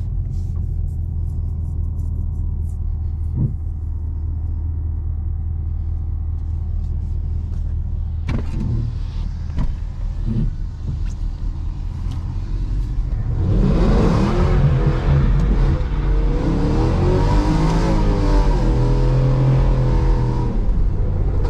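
Chevrolet Camaro SS 6.2-litre V8 running low and steady with its exhaust in quiet stealth mode, then about 13 seconds in the engine revs up and holds, its pitch wavering, while the tyres spin and hiss on wet pavement in a donut.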